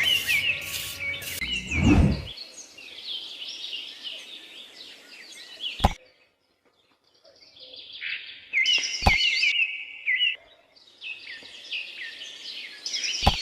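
Small birds chirping in quick, repeated chirps, with a low thump about two seconds in, a few sharp clicks, and a brief break to silence about six seconds in.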